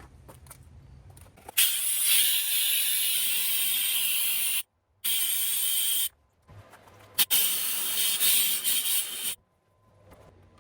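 Compressed air hissing through a pneumatic brake bleeder kit in three bursts, the first the longest, each starting and stopping abruptly, as it sucks leftover flood water out of an engine cylinder through the spark plug hole.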